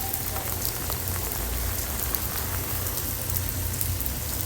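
Heavy rain pouring down steadily, with the sharp ticks of drops striking close by and a low rumble underneath.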